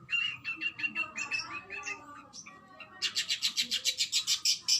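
Oriental magpie-robin (kacer) singing. First comes a run of quick whistled notes, then, about three seconds in, a fast train of sharp repeated notes at roughly six a second, the rapid-fire 'tembakan' burst.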